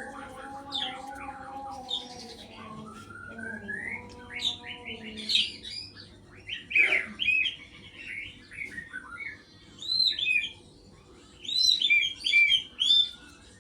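White-rumped shama singing: bursts of short, varied whistled phrases with pauses between them, loudest about seven and twelve seconds in. A lower, steady held tone sounds under the song for the first few seconds.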